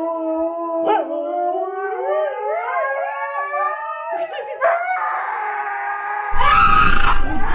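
Dogs howling at night in long, drawn-out howls that rise slowly and waver in pitch, overlapping in places. About six seconds in, a sudden louder, noisier sound cuts in over them.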